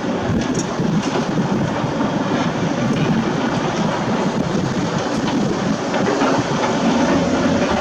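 Heavy construction machinery working: a steady, loud diesel rumble with a few scattered clanks.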